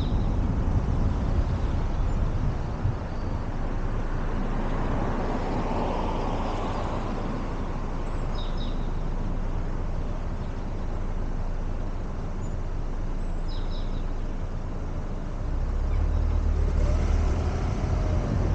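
City street traffic noise: a steady low rumble of traffic, with a vehicle passing about five seconds in and low wind rumble on the microphone growing near the end.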